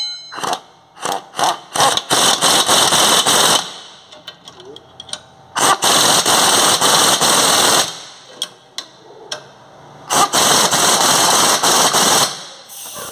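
Impact wrench tightening suspension bolts: a few short rattling bursts, then three long, loud rattles of about two seconds each.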